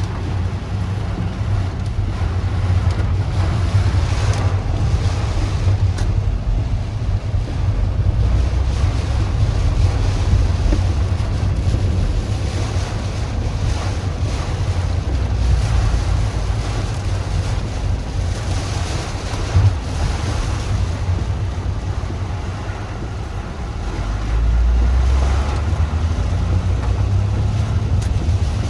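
Typhoon wind buffeting the microphone in heavy, uneven gusts, over a steady hiss of wind and rain, with a stronger gust near the end.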